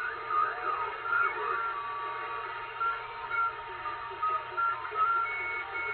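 President Washington CB base radio's receiver audio through its speaker: band static with short on-and-off whistling tones and faint, garbled sideband voices from distant stations coming in on skip.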